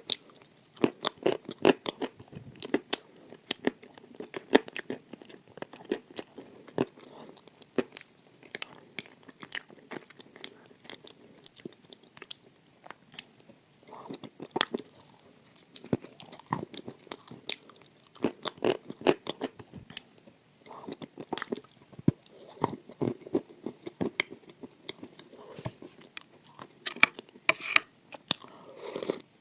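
Close-miked eating of crunchy food: repeated bites and chewing, with sharp crunches coming in quick clusters.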